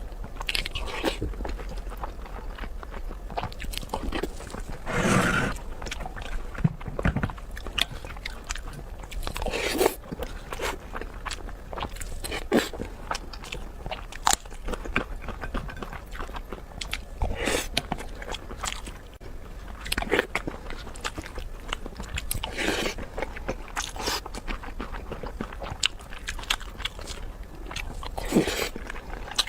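Close-miked eating: a person biting and chewing with sharp crunching clicks, and louder wet mouthfuls every few seconds.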